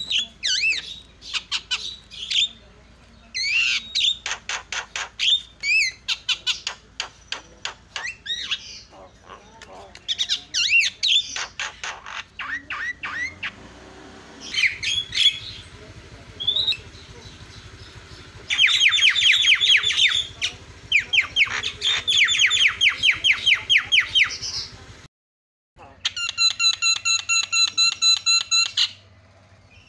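Jalak (mynas and starlings) calling noisily: harsh squawks and chattering, with fast rattling strings of notes in the middle. Near the end, after a brief gap, comes a run of high, evenly pitched repeated notes.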